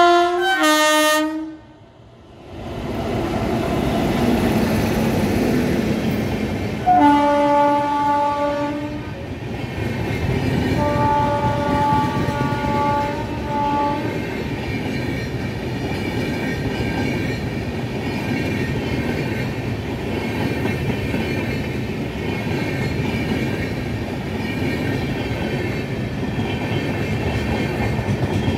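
WAG-9HC electric locomotive sounding its horn as it approaches: a short blast that drops in pitch at the start, then two longer blasts about seven and eleven seconds in. The steady rumble and clatter of its passenger coaches rolling past fills the rest.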